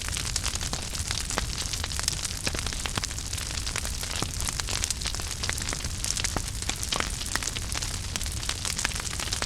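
Wood fire burning in a fireplace: a steady low rumble and hiss with many small irregular crackles and pops throughout.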